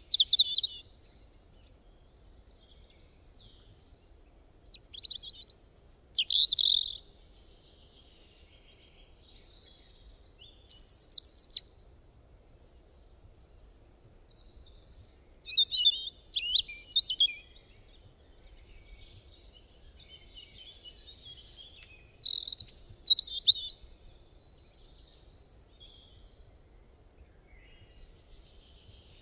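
Small songbirds chirping in short bursts of quick, high notes every four to six seconds, over a faint low hum.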